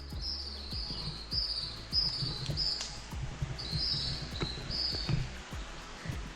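A run of short, high chirping calls from a small forest animal, repeated about every half second with a short break about halfway, over a low rumble and a few faint knocks.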